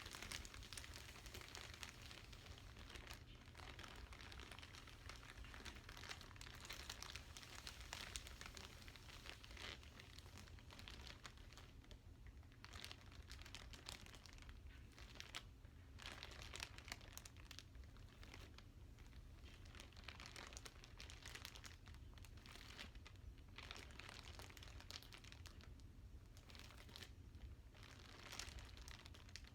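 Plastic packaging crinkling and rustling as it is handled, in soft irregular crackles.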